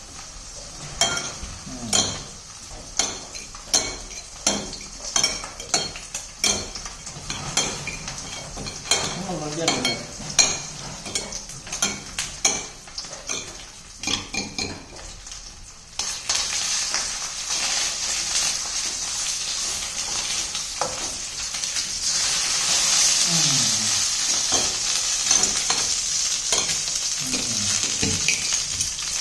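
A utensil stirs, scrapes and taps in a cooking pan with many short clicks. About halfway through, a sudden steady sizzle starts as food hits hot oil, and it grows louder a few seconds later.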